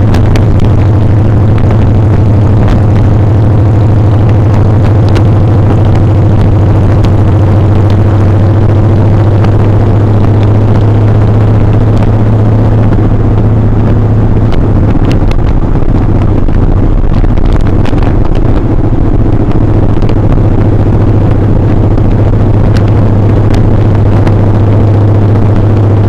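Motorcycle engine running at a steady cruise, loud and close, with a strong low hum that eases slightly about halfway through and then returns.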